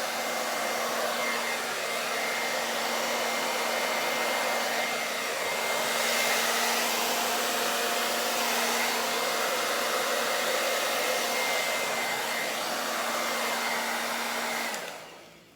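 Hair dryer running steadily, blowing paint across a canvas in a Dutch pour, with a faint steady whine over the rush of air; it is switched off near the end and dies away.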